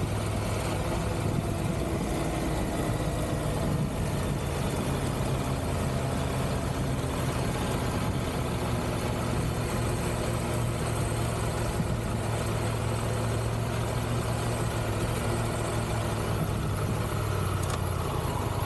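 Triumph Tiger 1200 GT Pro motorcycle engine running at a steady, moderate pace while riding, its pitch shifting only slightly. A steady hiss of wind and road noise runs underneath.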